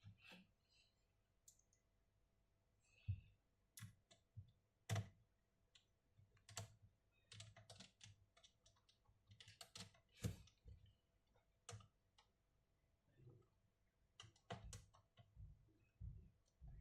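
Irregular light clicks and taps on a laptop, faint, with a few sharper ones scattered through.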